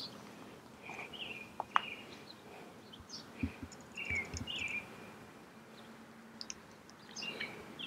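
Wild birds chirping: short, high, falling chirps repeating every second or so over a faint outdoor hush. A sharp click about two seconds in and a few soft low thumps near the middle.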